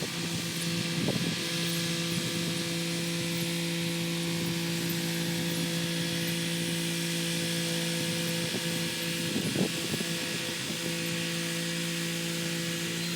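Kubota SL35 tractor's diesel engine running at a steady speed while driving a rotary tiller through soil, with a hiss over the engine hum. A few brief louder knocks come about a second in and again around nine and a half seconds.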